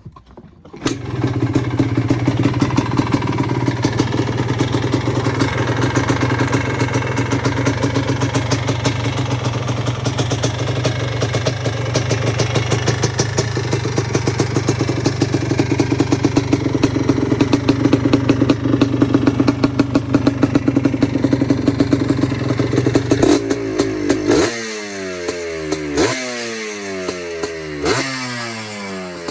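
2005 Yamaha Blaster ATV's 195 cc two-stroke single-cylinder engine running through an FMF aftermarket exhaust. It comes in about a second in, idles steadily for a long stretch, then is revved in three quick throttle blips near the end.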